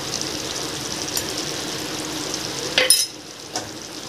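Mutton curry sizzling and bubbling in a pan on the stove, with a sharp knock just before three seconds in, after which the sizzle is quieter.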